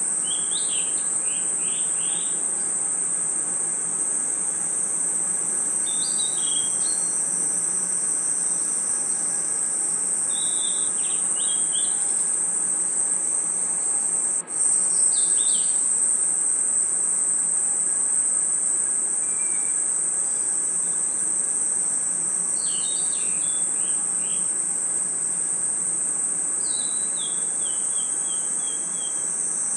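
Night chorus of crickets and other insects: a dense, steady high-pitched trill, with short runs of lower chirps every few seconds. The sound drops out very briefly about halfway through.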